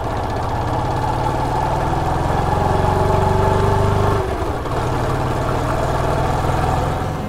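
Motorcycle engine running under way. The engine note climbs a little, dips briefly about four seconds in, then picks up again.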